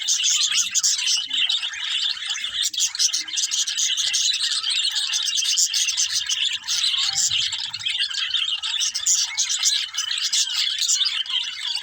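Budgerigars chattering and chirping in a continuous, dense stream of rapid short chirps.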